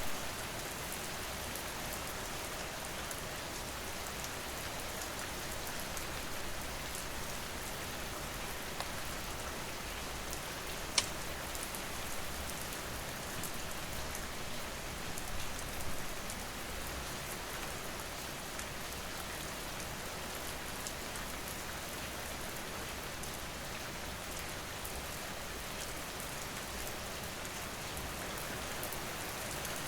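Steady rain falling, with scattered crackles and pops from a wood fire; one sharp pop stands out about eleven seconds in.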